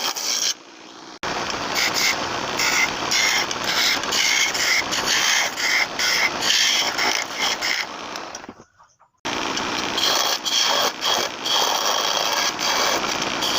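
Wood lathe running while a turning chisel cuts the spinning wood: a rough scraping hiss over a steady high whine. It drops out briefly about half a second in, and again around nine seconds in.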